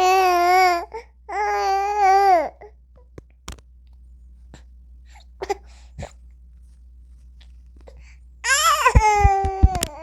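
A baby vocalizing in long, high-pitched drawn-out calls: twice in the first two and a half seconds, and again from about eight and a half seconds. A quiet pause in between holds a few short clicks.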